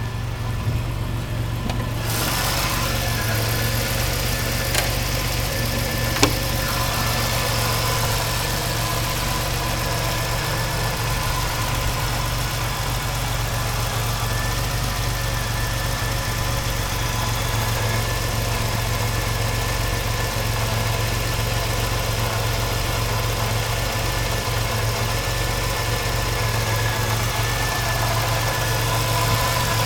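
Engine idling steadily after a cold start: a constant low hum with a few faint steady tones above it. Two light clicks sound about five and six seconds in.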